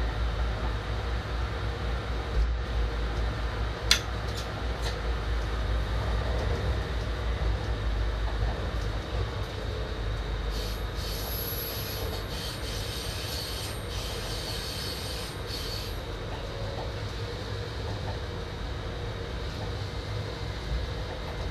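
Train running along the track, heard from the driver's cab as a steady low rumble, with a sharp click about four seconds in. From about halfway through, a high-pitched wheel squeal sounds for some five seconds as the train takes a curve.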